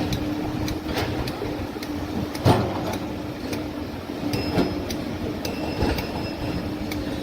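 Heavy earthmoving machinery at work: a steady low engine hum under repeated sharp metallic clicks and clanks, with one loud knock about two and a half seconds in and two brief high-pitched beeps in the middle.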